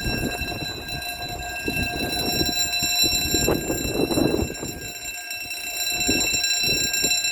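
Railway level crossing warning alarm sounding as a steady electronic tone, over a low uneven rumble.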